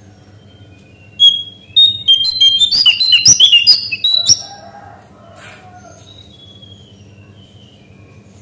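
Small songbird singing: a loud, rapid burst of high chirping notes from about a second in to about four seconds, then a softer run of falling notes.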